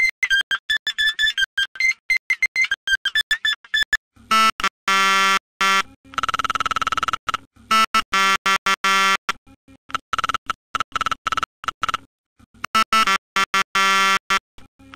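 Electronic cartoon soundtrack of synthesizer tones: a high, beeping run of notes for about the first four seconds, then harsh buzzing synth chords chopped into rapid stuttering pieces.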